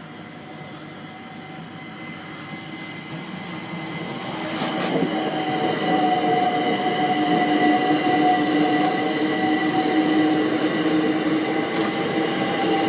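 London Overground Class 378 electric train passing over the level crossing, growing louder from about four seconds in and then running steadily with a whine.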